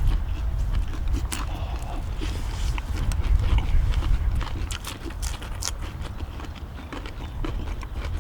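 Eating sounds: chewing, with irregular sharp clicks of utensils against the cast-iron pot-lid griddle, over a steady low rumble.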